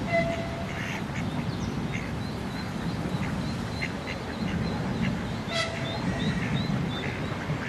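Birds calling: two short pitched calls, one at the start and one about five and a half seconds in, among scattered high chirps and a quick series of short rising notes near the end, over a steady low rumbling noise.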